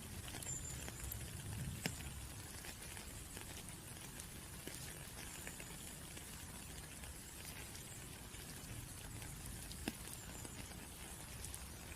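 Raindrops pattering steadily, with many scattered individual drop ticks and two sharper drops, one about two seconds in and one near ten seconds.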